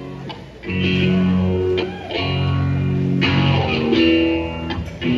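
Live rock band playing a slow passage between sung lines: electric guitar chords over bass, the chords changing every second or so.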